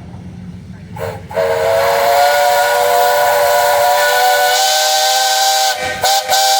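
Steam whistle on a 1918 Advance-Rumely steam traction engine. It gives a short toot about a second in, then a long, loud blast of several steady tones over a steam hiss, with two quick breaks near the end.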